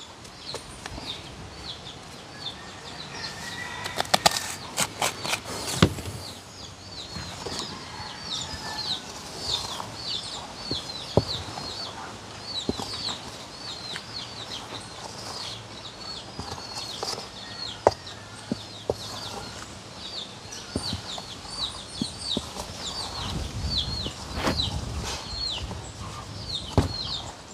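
A bird chirping over and over, short high notes about two or three a second, with a metal spoon stirring dry flour mix in a stainless steel bowl and clinking against it now and then, several clinks about four to six seconds in.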